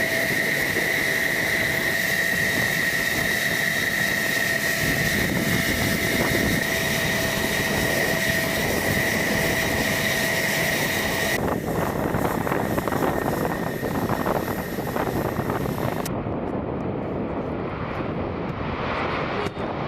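Aircraft engines running: a dense, steady engine noise with a high whine, changing abruptly about 11 seconds in and again about 16 seconds in, when the high end drops away.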